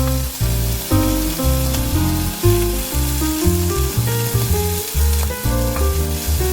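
Food frying in oil in a frying pan, a steady sizzle, under background music with a bass line and stepping melody notes.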